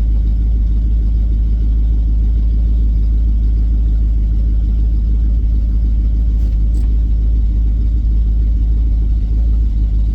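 A car's engine and drivetrain running in a steady low rumble as the car drives along.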